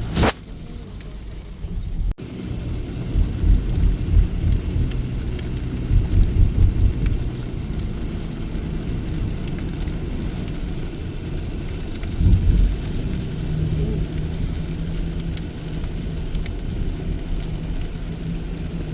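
Thunderstorm street ambience: rain and low rumbling that swells several times, with a sharp crack at the very start and a steady low hum in the latter part.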